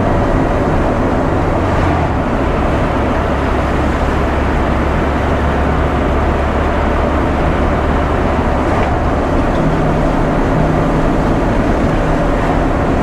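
Loaded ready-mix concrete mixer truck driving at road speed: a steady engine drone with road noise.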